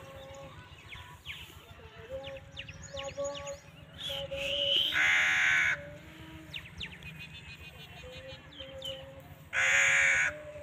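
Two loud, harsh bird calls, each under a second long, about five seconds in and again near the end, with smaller birds chirping in between.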